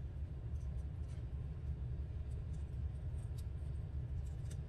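Steady low hum with a few faint, light clicks and rustles of paper and sticker pieces being handled on a craft table.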